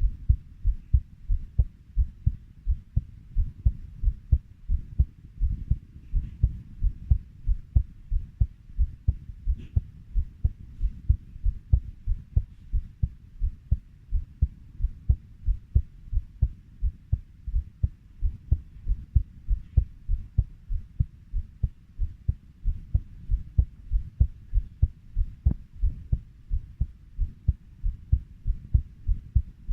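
Heartbeat at a steady 90 beats a minute: low, even lub-dub thumps.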